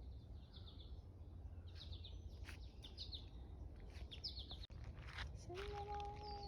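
Small birds chirping in short repeated trills over a low steady rumble, with scattered soft clicks. Near the end a steady pitched tone is held for about a second.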